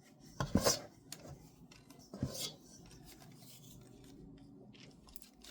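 A cookie scoop scraping through sticky biscuit dough and dropping portions onto a baking sheet, two louder scrape-and-drop sounds about half a second and two seconds in, then lighter rubbing.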